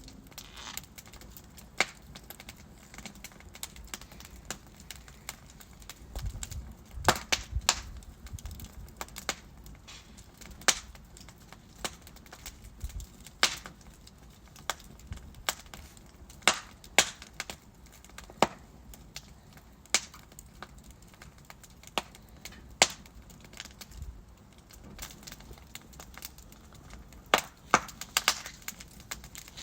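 Wood fire crackling in a fireplace: burning logs give off irregular sharp pops and snaps over a low, steady rush of flame, with small clusters of louder cracks.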